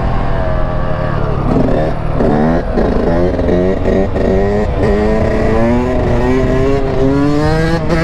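Dirt bike engine accelerating hard. About two seconds in, its pitch climbs several times in quick succession, each climb breaking off and starting lower as it shifts up. Then it rises slowly and steadily in revs.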